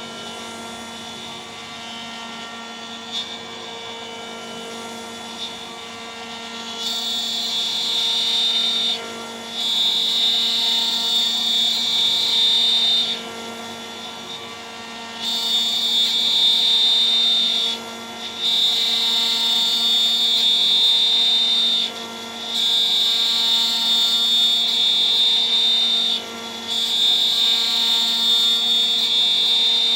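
DIY CNC router's spindle running steadily with a 3 mm three-flute end mill milling. From about seven seconds in, a loud high-pitched cutting noise comes and goes as the cutter engages, breaking off for a moment between passes every few seconds.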